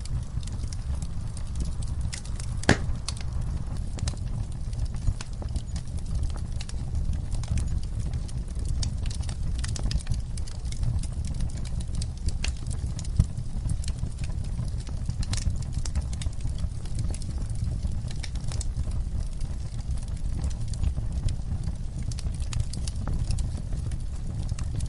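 Wood fire crackling: a steady low rumble of burning with dense, irregular crackles and pops, one louder pop about three seconds in.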